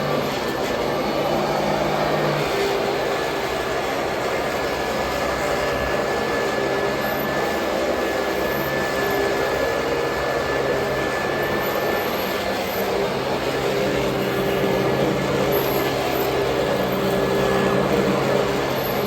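Royal Model 2008 upright vacuum cleaner running steadily, a constant motor and airflow noise with a faint steady high whine.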